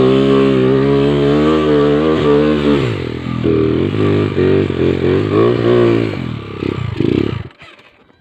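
Motorcycle engine running at a steady note, then revving unevenly in short rises and falls, and cutting off suddenly about seven and a half seconds in.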